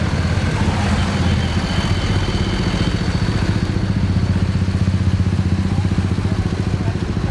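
Truck diesel engine running at low revs close by, a steady low sound with a fast, even pulse.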